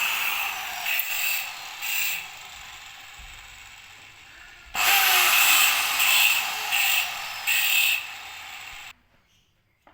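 Car radiator cooling-fan electric motor run on test in two spells: a whirring hiss with a falling tone that fades, then starts again abruptly, pulses about once a second, and cuts off suddenly.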